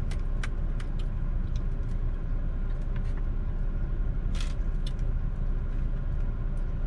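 Steady low rumble of a car's engine running, heard from inside the cabin, with a few light clicks and taps scattered through it.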